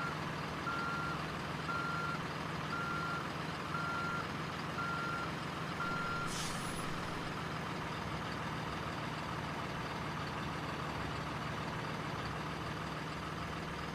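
Reversing alarm from a remote-control truck's sound unit beeping about once a second over a steady low hum. The beeps stop about six seconds in, followed by a short hiss like an air-brake release.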